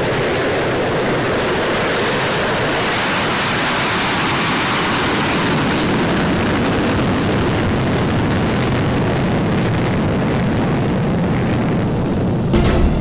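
Steady jet engine noise from a fighter jet, a loud even roar whose weight slides from the middle toward the low end as it goes. Near the end a deep hit and music come in.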